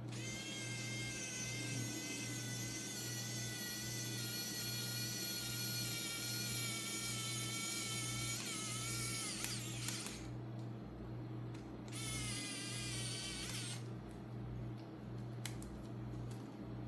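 Small electric screwdriver running while driving screws, a steady high whine for about ten seconds that sags in pitch near the end as it slows under load, then a second short run of about two seconds.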